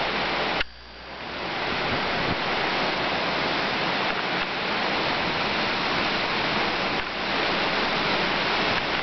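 Hurricane Ike's wind blowing through trees: a steady, dense rush of noise that drops away suddenly about half a second in, then builds back up over the next second.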